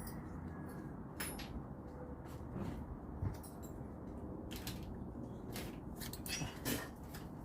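Rummaging through tools and small hardware: irregular clinks, clicks and rattles of handled metal parts, a few every second.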